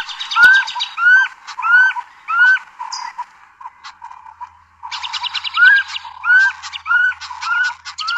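Recorded bird call: a repeated upslurred note, about one every two-thirds of a second, over a dense chatter of higher notes. There is a lull in the middle before the calling resumes.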